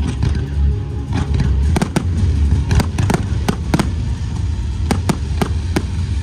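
Aerial fireworks going off in a rapid series of sharp bangs, about three a second, over loud music with a heavy bass.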